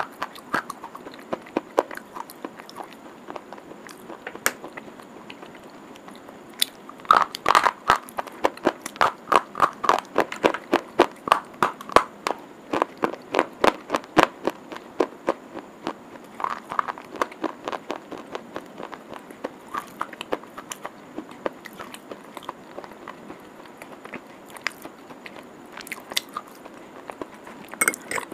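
A hard, dry white stick being bitten and chewed close up, making sharp crunches. A fast run of crunches comes in the middle, then softer, sparser chewing, with a few louder crunches near the end.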